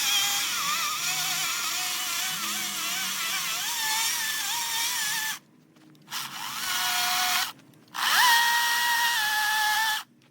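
A high-speed power tool whines in three runs separated by short breaks, its pitch wavering as it bites into the wood. It spins up to speed at the start of the second and third runs.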